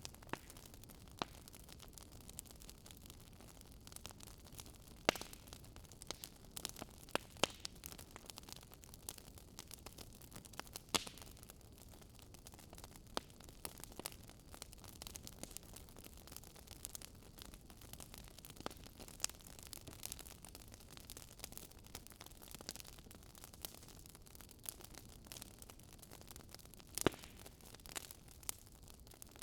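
Wood fire burning in a fireplace: a soft steady hiss with irregular crackles and pops, a few of them sharper and louder.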